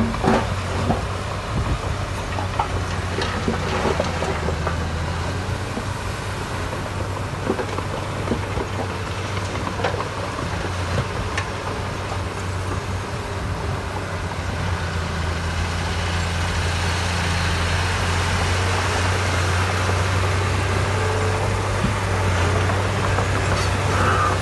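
Heavy-equipment diesel engine running steadily with a low, even hum, a little louder in the second half, and a few faint knocks.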